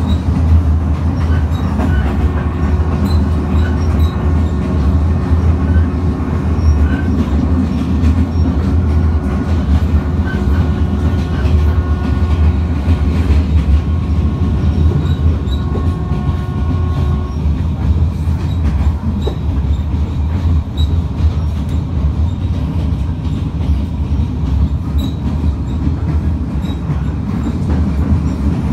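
Vietnam Railways passenger train running along the track, heard from inside the carriage: a loud, steady rumble of wheels on rail, with a faint, thin steady squeal from the wheels from about two seconds in until a little past halfway.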